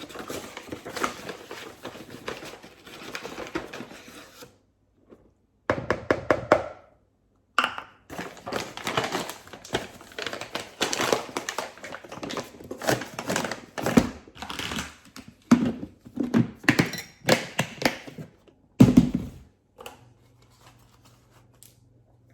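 Bag of bread flour being handled and folded shut: irregular crinkling and rustling with occasional knocks, stopping about two seconds before the end.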